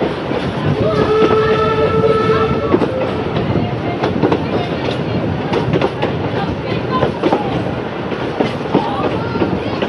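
Narrow-gauge passenger train running, heard from a carriage window: a steady rumble with the wheels clicking over rail joints. About a second in, a locomotive whistle blows once for about two seconds.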